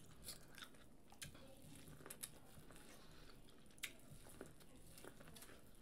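Faint eating sounds of corn on the cob being bitten and chewed: scattered small wet clicks and crunches of kernels, with no steady sound behind them.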